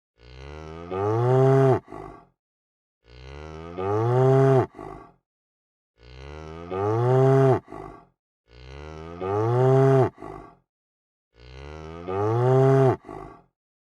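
A cow mooing: five near-identical moos about every three seconds, each rising in pitch, breaking off abruptly, then ending with a short, quieter after-note.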